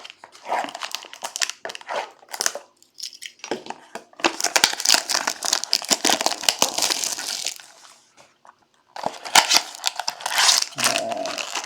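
Plastic wrapping on a trading-card box and packs being torn open and crumpled: bursts of crinkling and tearing, with short pauses about three and eight seconds in.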